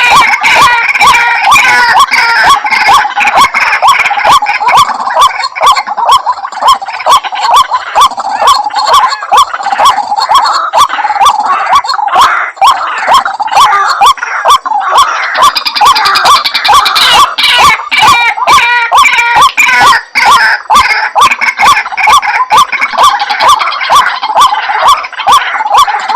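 White-breasted waterhen calling without pause: a dense run of rapid, repeated croaking 'ruak-ruak' calls, several a second. It is a lure recording used to draw waterhens in.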